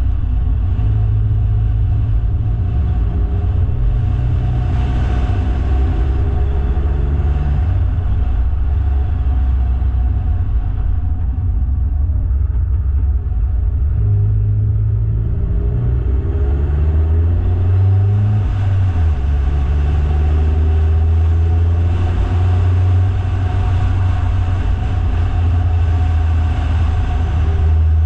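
Car engine and road noise while driving, a steady low drone whose pitch shifts up and down about halfway through as the revs change.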